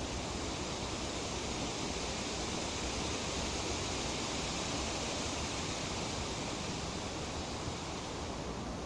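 Wind in tree foliage: a steady rushing rustle of leaves that swells slightly in the middle.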